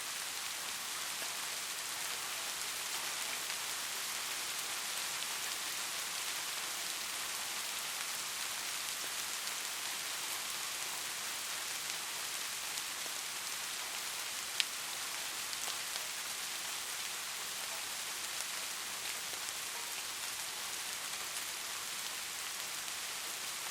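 Steady rain falling, an even hiss with faint scattered drop ticks and one sharper tick about halfway through.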